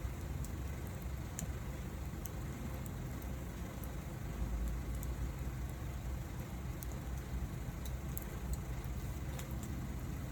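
Wood fire burning, with irregular small crackles and pops over a steady low rumble.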